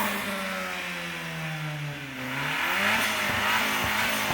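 A car engine under load, its revs falling for about two seconds, then picking up again and holding steady.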